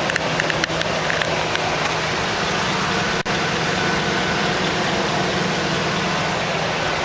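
Hummer H2's 6.2-litre V8 idling steadily, with a few light clicks in the first second and a momentary dropout about three seconds in.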